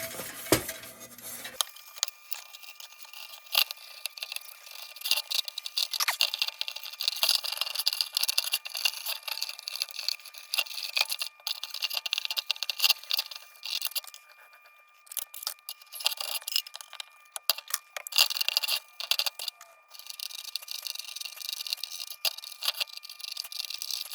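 Steel wool rubbing over the metal of a lantern: a scratchy, irregular scrubbing full of small clicks, with short pauses about two-thirds of the way through.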